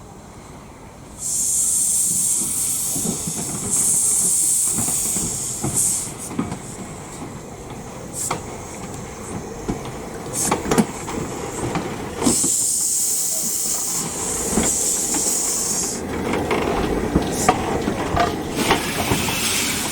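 Steam locomotive letting off steam in loud hissing bursts, the first starting suddenly about a second in and a long one past the middle, with scattered knocks between them.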